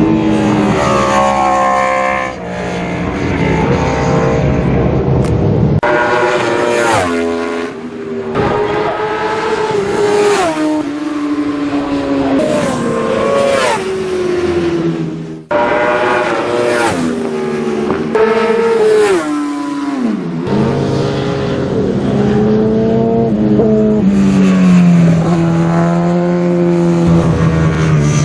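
Classic superbike racing motorcycles at racing speed, engines revving hard and climbing in pitch through the gears, then dropping in pitch as bikes pass, one after another. The sound breaks off abruptly about halfway through and picks up again.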